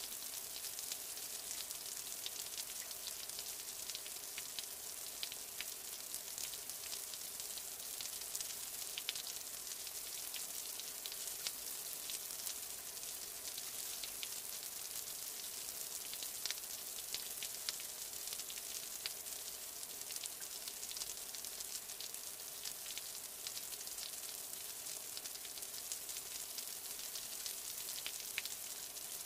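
Steady rain: a dense, even hiss of falling rain with many small, sharp droplet ticks.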